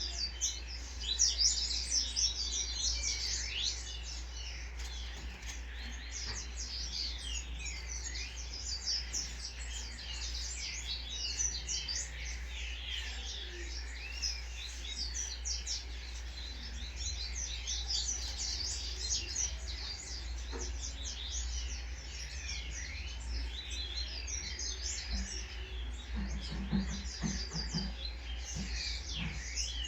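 Birds chirping continuously in many quick, overlapping calls, over a steady low hum, with a few soft low knocks near the end.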